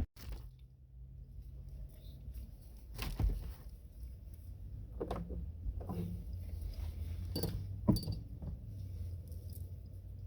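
Handling noises as a curtain is clipped up inside a car: a handful of sharp clicks and knocks from the clips and fittings over a low steady hum.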